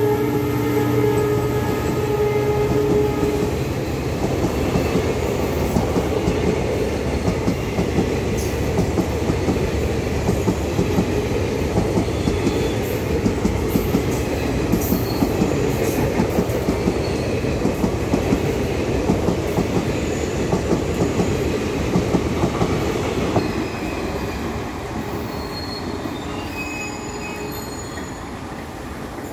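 An express train's passenger coaches rolling past at speed, with a steady rumble and a rapid, regular clatter of wheels over the rail joints. The locomotive's held horn tone dies away in the first few seconds. The clatter thins out near the end as the train recedes.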